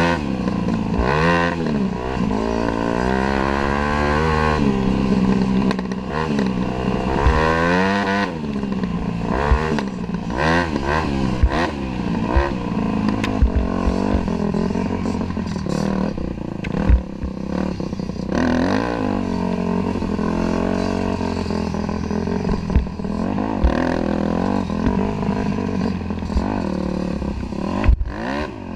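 Dirt bike engine revving up and dropping back again and again while riding, with sharp knocks and rattles now and then.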